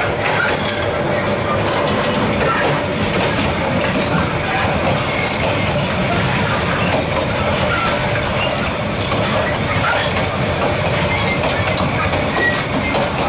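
Moving train heard from the open gap between two carriages: a loud, steady rumble of steel wheels on the rails with constant rattling and clatter, and scattered short high squeaks.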